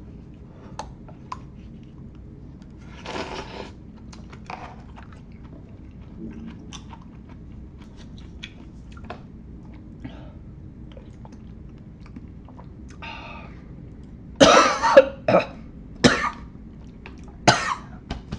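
A man coughing hard about four times near the end, set off by the spicy Szechuan chili oil, after a long stretch of quiet chewing with small clicks.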